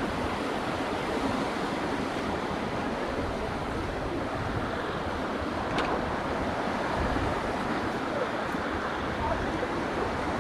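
Ocean surf washing onto a beach: a steady rush of waves, with wind buffeting the microphone. A brief click about six seconds in.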